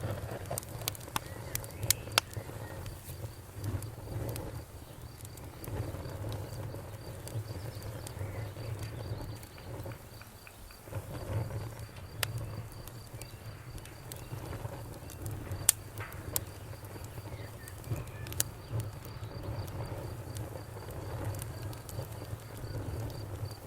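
Bonfire crackling, with a low steady rumble of the flames and sharp wood pops every few seconds. Crickets chirp in a high, fast, even pulse behind it.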